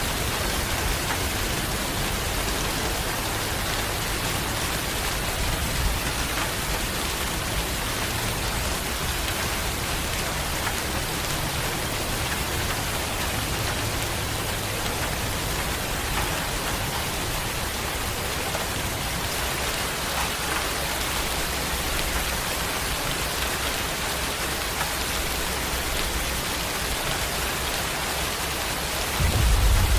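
Steady rain falling on a surface, an even hiss of many drops. A deep rumble of thunder comes in just before the end.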